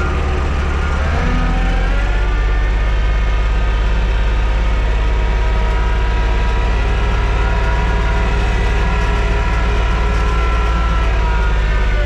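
TYM T224 subcompact tractor's diesel engine running steadily while working a box blade, with a steady higher whine over it. About a second in, the engine note drops lower and gets a little louder, and it changes again near the end.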